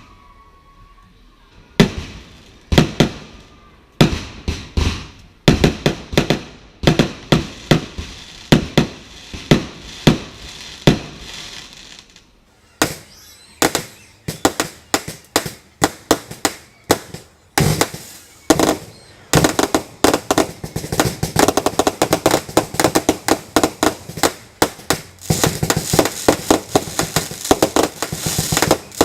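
Fireworks display going off: a rapid run of sharp bangs with a short lull about twelve seconds in, then coming thicker and faster toward the end.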